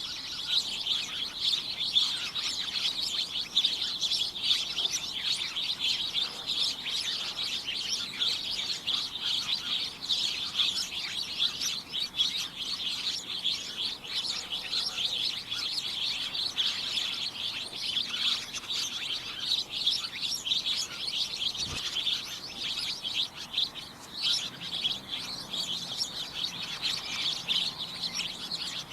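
A crowd of small birds chirping and tweeting continuously, many short high calls overlapping into a busy, unbroken chatter.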